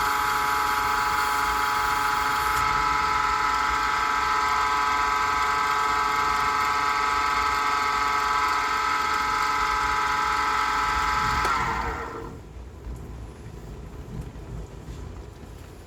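Small pen-turning lathe running with a steady whine, switched off about eleven and a half seconds in, its pitch falling as it spins down. Faint rubbing follows.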